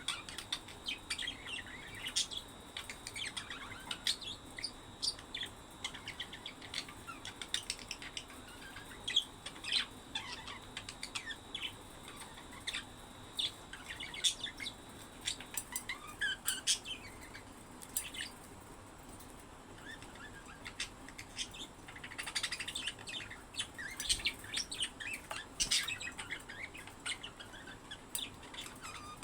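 Budgerigars chirping: a steady stream of short, quick high chirps that grows busiest for a few seconds near the end.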